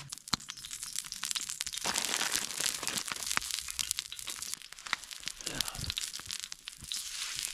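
Crinkling and crunching from handling a crusty sourdough loaf, with many sharp irregular crackles. The busiest stretch runs through the middle.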